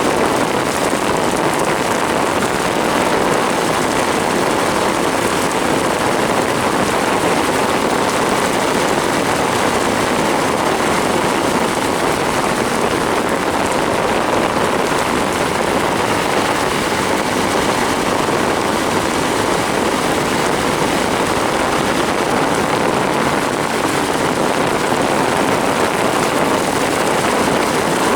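Torrential rain pouring down on a vehicle and road, a dense, steady hiss with no breaks.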